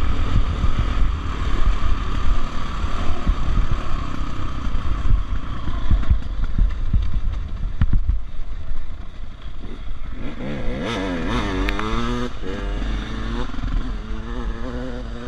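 Dirt bike engine running over rough, muddy trail, with knocks and rattles from the ground. About ten seconds in, the engine note rises and falls several times as the throttle is worked, then settles into a steadier, lower note.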